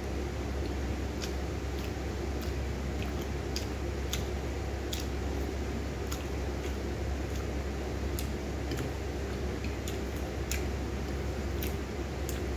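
Close-up chewing of fried milkfish and arugula: irregular sharp mouth clicks and crunches, one to three a second, over a steady low hum.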